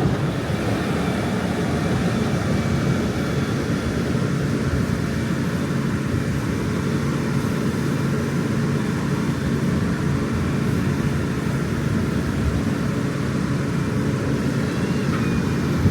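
Heavy farm machinery's diesel engine running steadily under load, a constant drone with no change in pace.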